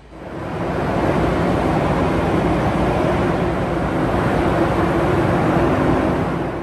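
Train noise: a loud, steady rush with a low hum underneath. It fades in over about the first second and then holds level.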